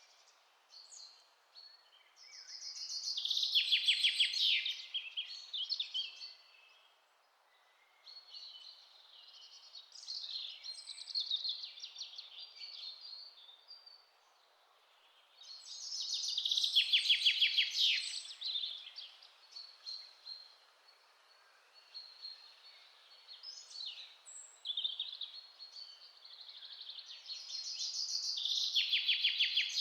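Several birds singing. A loud song ending in a rapid trill comes about every thirteen seconds, with softer calls from other birds in between, over a faint steady hiss.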